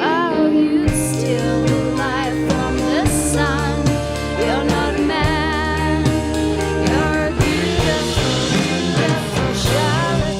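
Indie rock band playing live: a sung lead vocal with wavering vibrato over electric guitar, bass and drums.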